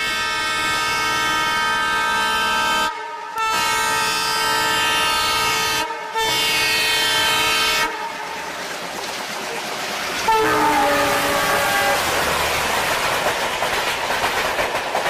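Miniature park train sounding its horn in three long, steady blasts with short gaps between them, then a shorter blast about ten seconds in. After that the rolling noise of the train on its narrow-gauge track grows louder as it pulls in.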